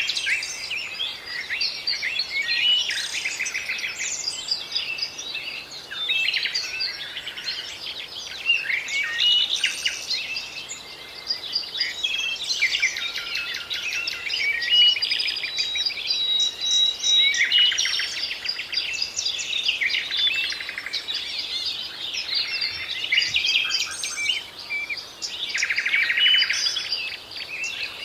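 Several birds singing and chirping at once, a dense chorus of overlapping trills and quick chirps.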